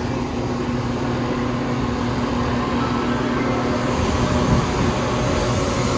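A diesel train's engine running with a steady hum, the rumble and hiss growing slightly louder near the end.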